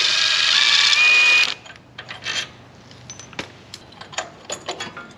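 Music for about the first second and a half, cutting off abruptly. After that come scattered sharp clicks and metal taps of hand tools and engine parts being handled, much quieter than the music.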